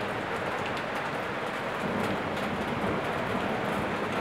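Torrential downpour: a steady, dense hiss of heavy rain, with scattered sharp ticks.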